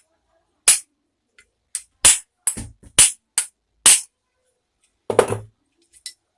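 A series of about ten sharp, irregularly spaced metal knocks as a ball bearing is worked out of a stand fan's electric motor, with a short pause before a last couple of knocks near the end.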